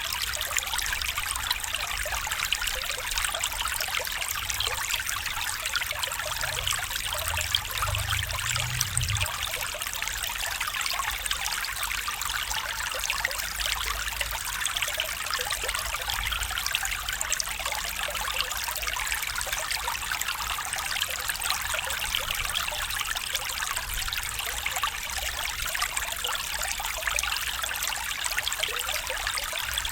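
A stream trickling, with a steady bright rush of running water. A faint low rumble swells briefly about seven to nine seconds in.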